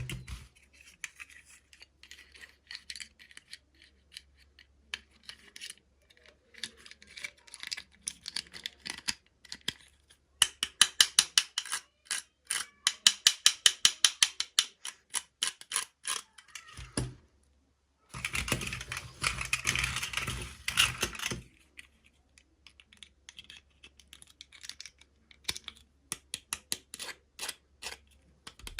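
Small plastic toy parts and packaging being handled: scattered clicks and rattles, a quick run of clicks in the middle, and a few seconds of rustling later on.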